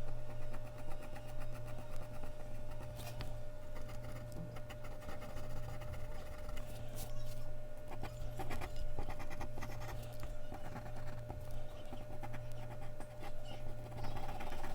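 Mechanical pencil scratching across Bristol paper in quick, repeated strokes, over a steady low hum.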